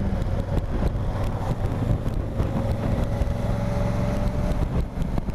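Honda Africa Twin's parallel-twin engine running steadily while riding, with wind rushing over the helmet-camera microphone.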